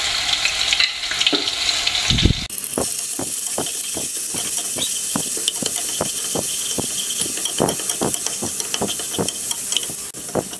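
Ginger garlic paste sizzling in hot oil in a non-stick pan while a wooden spatula stirs it, scraping and tapping the pan two or three times a second. About two and a half seconds in, the sizzle jumps to a brighter, steadier hiss.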